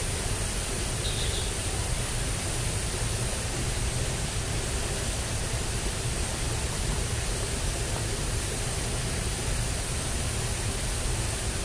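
Steady rushing of ditch water running high after heavy rain, with a thin, steady high hiss over it.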